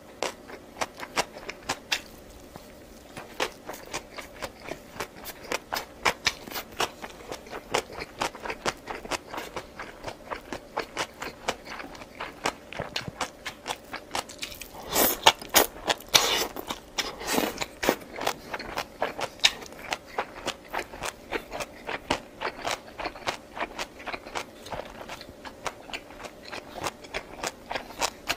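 Close-miked chewing and eating mouth sounds: a rapid run of small wet clicks and crunches, with a louder stretch of chewing about halfway through.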